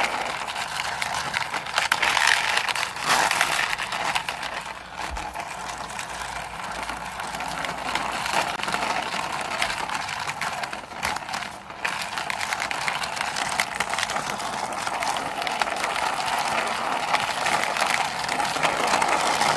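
Plastic toy helicopter pushed by hand along the ground: a continuous gritty rattling and scraping of its wheels and toy mechanism.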